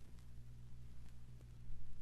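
Vinyl record lead-in groove playing before the music: scattered clicks and pops of surface crackle over a steady low hum.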